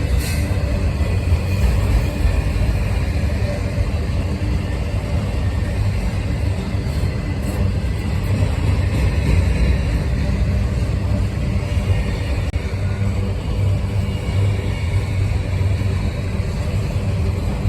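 Freight train of auto rack cars rolling past, a steady rumble of wheels on the rails.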